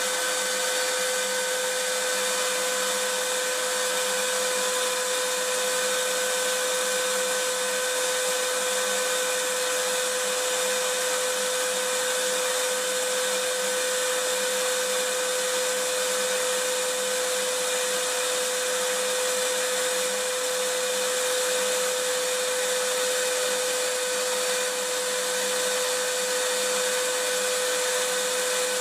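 Vacuum cleaner motor running steadily: an unchanging hiss of rushing air with a constant whine.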